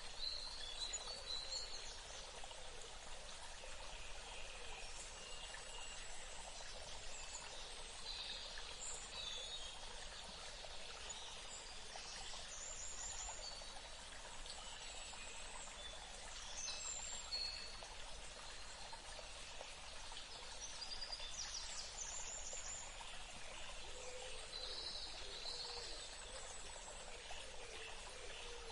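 Birds chirping and calling in many short, scattered calls over a steady background hiss.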